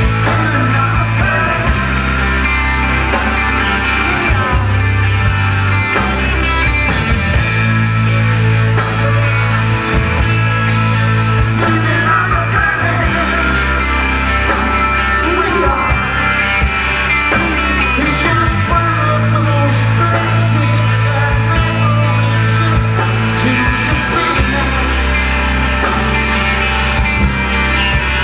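Live rock band playing a long instrumental passage: held bass notes that shift every few seconds under guitar and keyboards, with a steady ticking beat of about two and a half a second.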